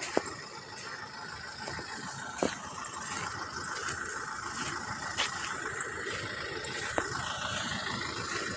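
Steady outdoor background noise with four short, sharp clicks spread through it.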